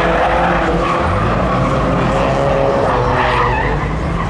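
Car doing donuts: engine held at high revs, its pitch wavering, with tyres skidding and squealing on the tarmac.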